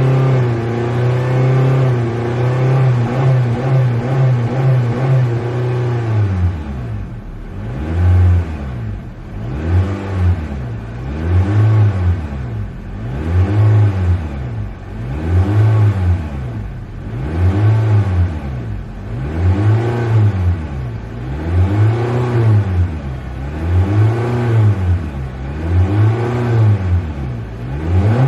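Car engine held at steady raised revs, then from about six seconds in revved up and let fall over and over, roughly one rev every two seconds.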